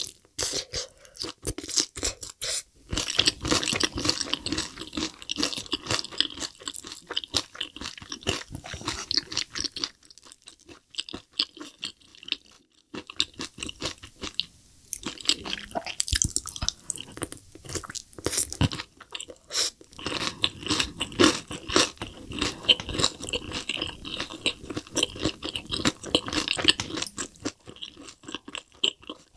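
Close-miked crunching and chewing of crispy, sauce-coated Korean spicy fried chicken (yangnyeom chicken) drumsticks, crackling bite after bite, with a quieter stretch about ten seconds in.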